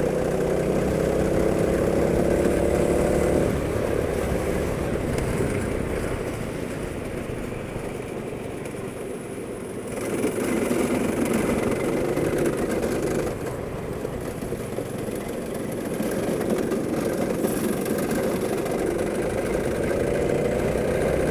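Go-kart engine running, its pitch climbing slowly then dropping away about three and a half seconds in, and climbing again near the end as it speeds up.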